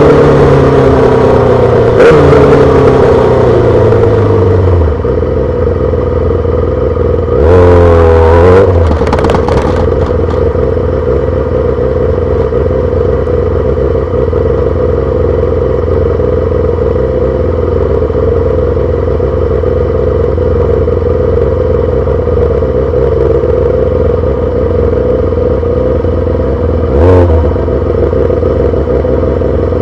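2008 Yamaha R6's inline-four through a full SC-Project exhaust, engine pitch falling as the bike slows in the first few seconds, then a quick burst of revs about eight seconds in. It then idles steadily, with one short blip of the throttle near the end.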